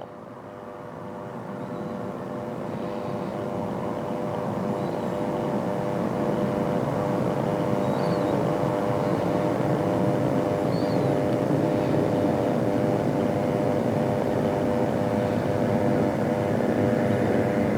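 Aircraft engine noise that grows louder over the first several seconds and then holds steady, a rumble with a steady hum of tones through it.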